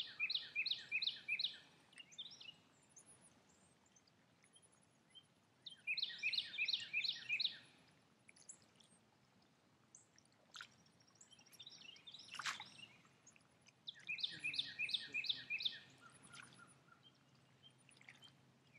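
A songbird singing a fast run of five or six repeated notes, three times a few seconds apart, with faint scattered bird chirps in between.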